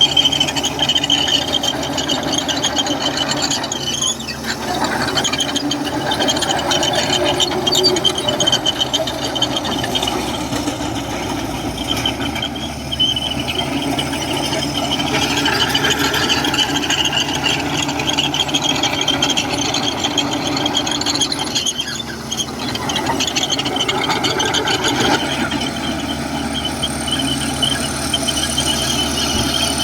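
Komatsu crawler bulldozer working, its diesel engine running steadily with a high-pitched squeal from the machine that wavers but never stops, dipping briefly twice.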